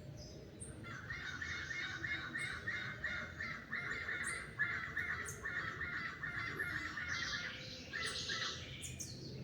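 Birds calling: a rapid, even run of repeated calls starts about a second in and fades out near the end, with short high chirps scattered over it.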